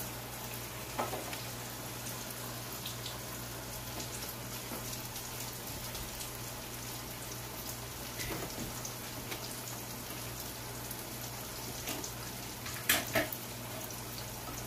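Salmon croquettes and freshly added potatoes frying in hot grease in skillets: a steady crackling sizzle. A few sharp knocks come through it, the loudest near the end.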